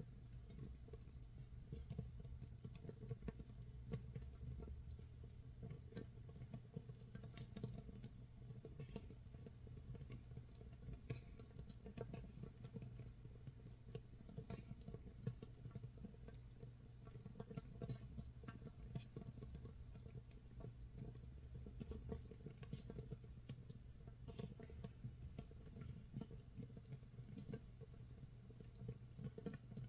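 Makgeolli starter mash fermenting in a jar: a faint, dense, irregular crackle of tiny bubbles popping, like rain patter or rice crisping in a pan, over a steady low hum.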